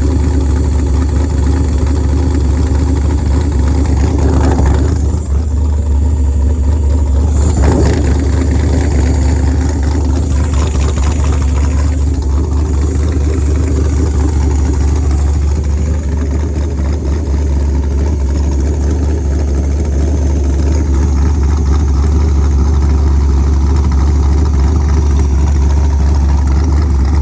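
LS-swapped El Camino's V8 idling steadily while the just-refilled power steering system is checked for leaks.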